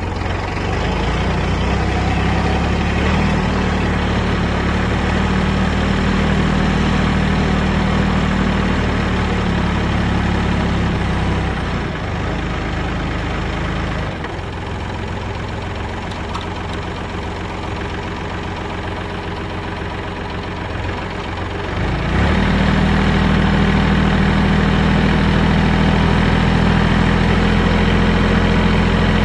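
Kubota tractor's diesel engine running steadily. About twelve seconds in it drops lower and quieter, and about ten seconds later it comes back up louder.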